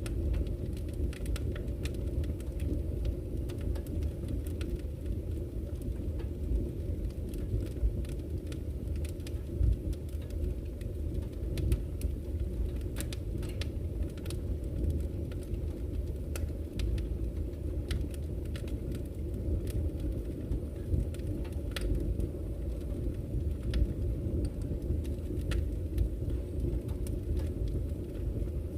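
Wood fire crackling with irregular sharp pops and snaps, a few louder than the rest, over the steady low rush of a flowing river.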